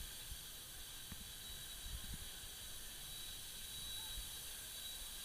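Steady faint hiss with irregular low rumbles of wind on the microphone, and a thin high whine throughout.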